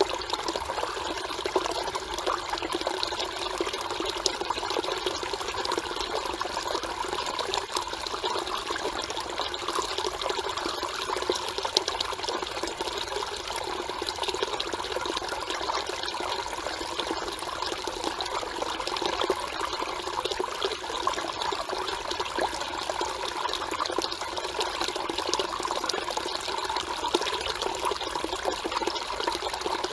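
Mountain stream water flowing and trickling steadily over rocks.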